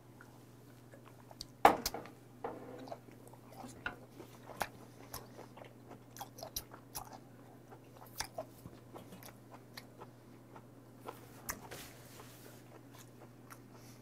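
Close-up wet chewing of sticky raw beef: irregular small smacks and clicks of the mouth working the meat. There is one sharper knock a little under two seconds in.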